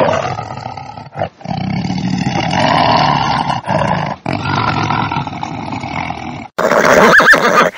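Tiger giving long, rough roaring growls with a few short breaks. It cuts off suddenly about six and a half seconds in, and a gobbling bird call starts near the end.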